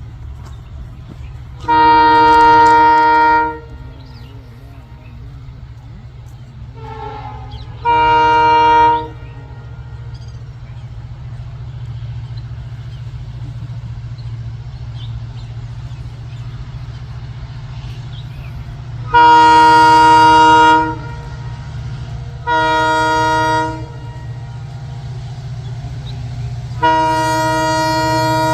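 Arriving Indian Railways express locomotive sounding its horn five times: a long blast, a shorter one, another long one, a short one, and a final blast held through the end, over the steady low rumble of the approaching train that grows slowly louder.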